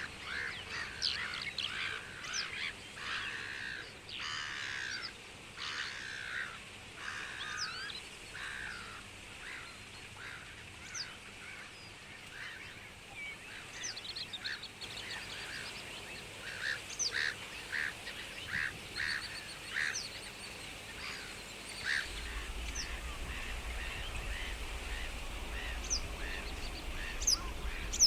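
Many birds calling over one another, a dense chatter of short calls that is busiest in the first several seconds and thins to scattered calls later. A low rumble comes in about three quarters of the way through.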